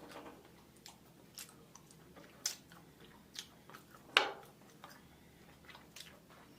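Close-miked eating sounds: a person chewing and biting seafood, with a handful of sharp clicks and cracks, the loudest about four seconds in.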